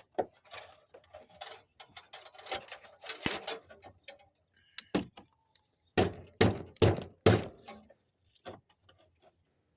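Clattering and knocking of a tool on metal, then four hard strikes in quick succession about six seconds in: a flathead screwdriver being used as a hammer.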